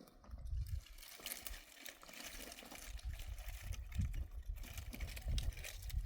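Rain pattering steadily, with a gusty low rumble underneath, starting about half a second in.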